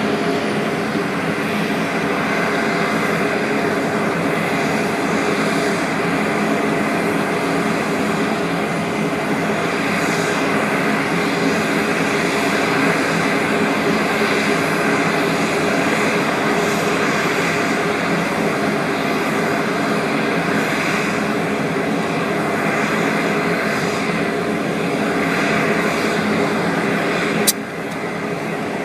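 Supermarine Spitfire's V12 piston aero engine running steadily. A sharp click comes near the end, after which the sound drops a little.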